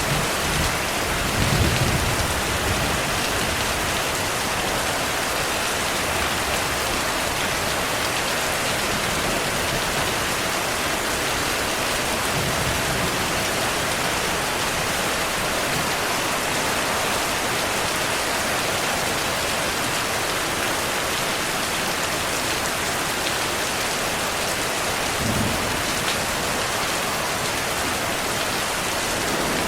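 Steady heavy rain with low rumbles of thunder, one about two seconds in and a shorter one near the end.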